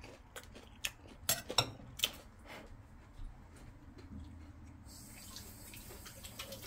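Faint chewing of a crispy battered orange-chicken piece, with about half a dozen sharp clicks in the first three seconds, among them a metal spoon set down in a ceramic bowl. A faint steady hiss comes in about five seconds in.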